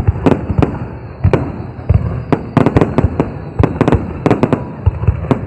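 Fireworks bursting overhead: many sharp bangs and cracks in quick, irregular succession over a continuous rumble.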